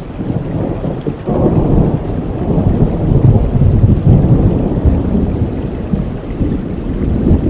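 Steady rain with a long, low roll of thunder that breaks in suddenly about a second in, swells, and slowly fades toward the end.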